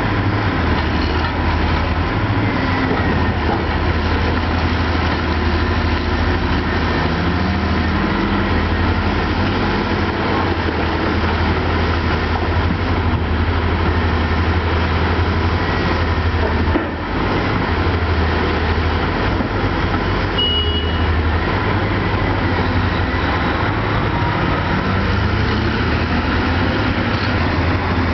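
Heavy diesel engines of a CAT 5080 mining shovel and a CAT haul truck running, a steady deep drone.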